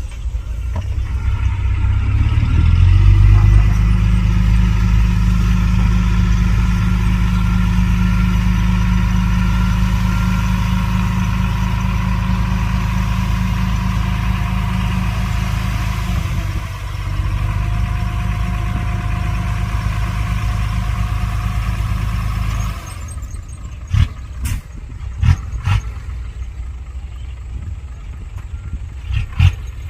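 Heavy diesel engine of earthmoving machinery revving up and running hard under load, then dropping back suddenly about three-quarters of the way through. A few sharp metal clanks follow.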